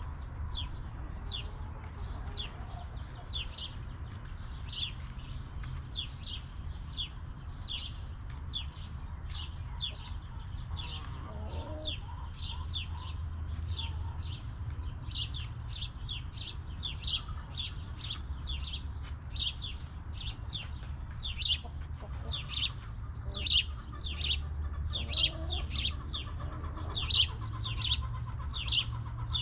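A bird chirping over and over, short high falling chirps about twice a second, louder in the second half, over a steady low rumble.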